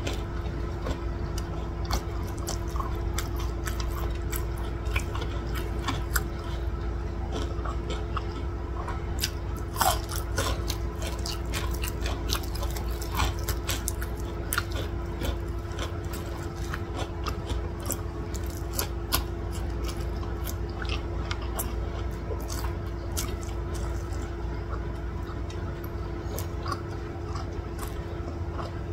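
A person chewing with their mouth close to the microphone, with frequent sharp wet clicks and smacks as rice, curried chicken and a fried vegetable fritter are eaten by hand. A steady hum runs underneath.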